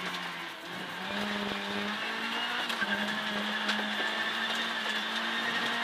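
Ford Fiesta R2 rally car's four-cylinder engine running hard at high, steady revs, heard from inside the cabin over road noise. The engine note dips briefly early on and picks back up about a second in, then holds steady.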